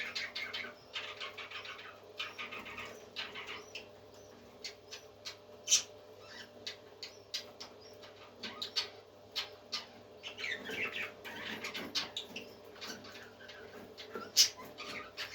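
Parrots chirping in short calls, with many sharp clicks scattered through, two of them loud, over a steady low hum.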